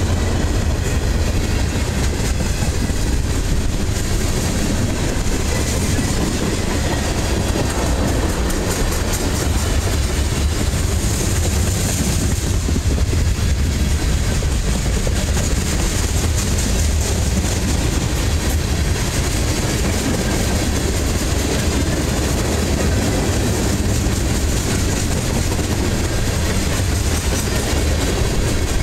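Freight cars, mostly tank cars and hoppers, rolling steadily past on steel wheels: a continuous heavy rumble that does not let up.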